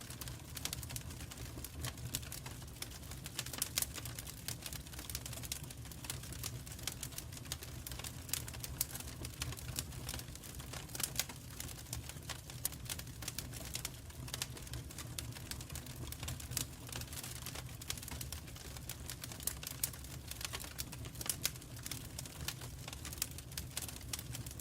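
Wood fire in a fireplace crackling: irregular sharp pops and snaps, some louder than others, over a steady low rumble of the burning fire.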